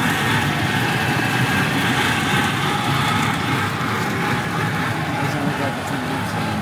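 Steady running rumble of an amusement-park miniature train, heard from a passenger car while it rolls along.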